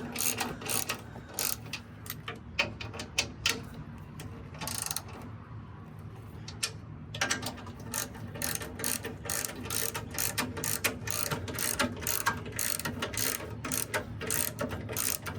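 Hand ratchet wrench clicking in quick runs as bolts are turned, stopping for a couple of seconds partway through, then carrying on.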